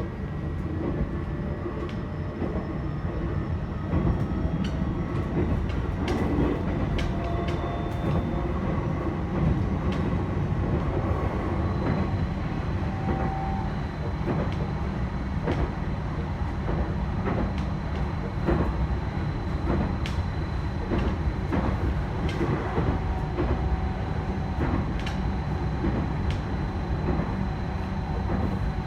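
Running sound of a JR East E129-series electric train, heard inside the KuMoHa E128 motor car as it runs at speed. There is a steady rumble of wheels on rail, a thin steady whine, and sharp clicks now and then.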